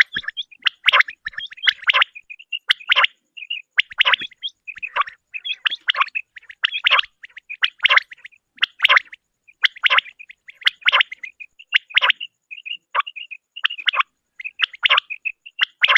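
Female common quail calling over and over: short, sharp calls, about one a second, with softer notes between them.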